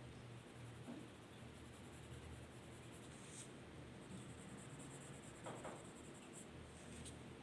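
Faint scratching of a drawing tool on paper, with a few small soft marks along the way.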